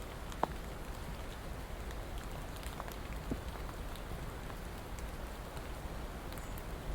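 Steady rain falling, with scattered individual drops ticking out of the constant patter; one sharper drop hit about half a second in.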